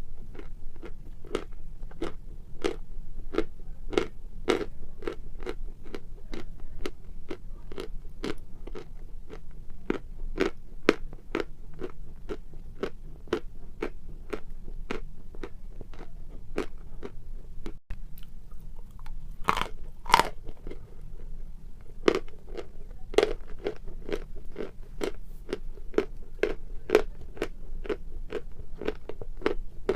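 Close-up chewing of hard chalk: steady crunching at about two bites a second, with a few louder, sharper bites past the middle.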